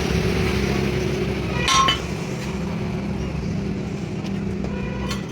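One sharp clink of metal striking metal that rings briefly, about two seconds in, over a steady low machine hum; a fainter tap comes near the end.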